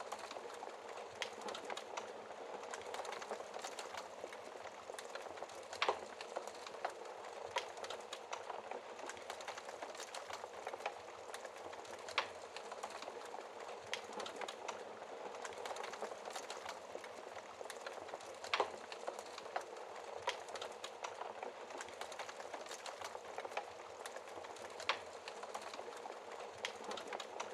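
Wood fire burning in a fireplace: a steady crackle of small snaps, with a sharper pop every six seconds or so.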